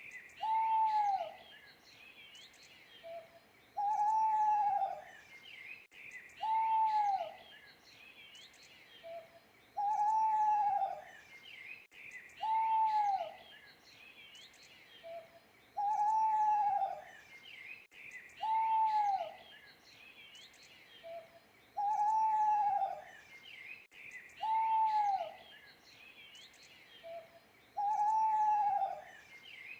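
An owl hooting: one hoot about every three seconds, each rising slightly and then sliding down at the end, repeating evenly. Small birds chirp and twitter more quietly underneath.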